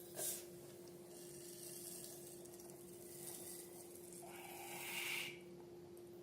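Faint slime-handling noises over a steady low hum. A short rustle comes just after the start, and a louder rasping squish builds about four seconds in and stops about a second later.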